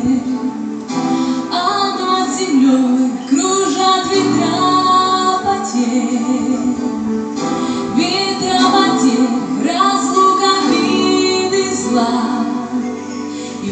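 A woman singing a melodic song over instrumental backing.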